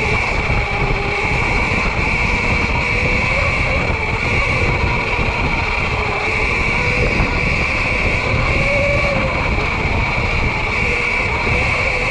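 Sur-Ron electric dirt bike on the move: the electric motor's whine rising and falling with the throttle over a steady high whine, with rumbling wind buffeting on the microphone.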